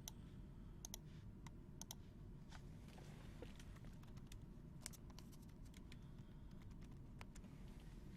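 Faint, scattered light clicks and ticks of trading cards being handled, about a dozen over several seconds, over low room hum.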